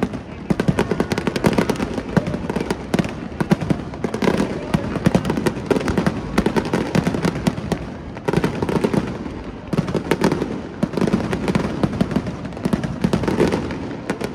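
Fireworks going off in quick succession: a dense, continuous run of sharp pops and crackles, with heavier clusters every second or two.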